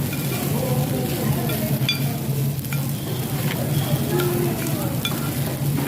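Steady low hum of background noise with faint, indistinct voices and a few short, high clicks.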